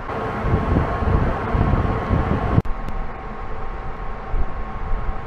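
Wind buffeting the microphone over a steady hum from the cruise ship. The buffeting stops abruptly about two and a half seconds in, leaving the hum with a few faint steady tones.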